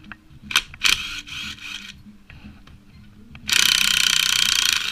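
Socket ratchet clicking as engine bolts are worked loose: a few sharp clicks and a short ratcheting run about a second in, then a longer, louder fast ratcheting run near the end.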